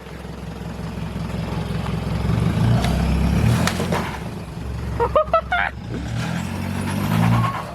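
Vehicle engine revving and held under load, rising over the first few seconds, as it pulls a tree down. A brief shout comes about five seconds in.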